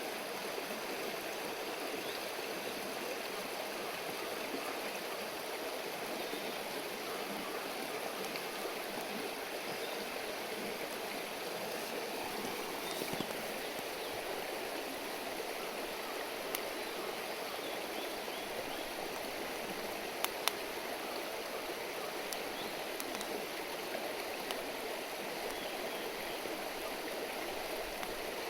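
River stream babbling steadily. A few sharp pops from the wood fire break through, around the middle.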